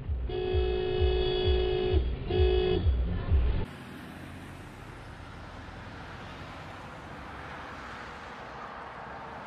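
Car horn honking: one long blast of about two seconds, then a short one, over a low, regular thumping beat. About four seconds in, the sound cuts to a steady, quieter rush of road and engine noise from inside a moving car.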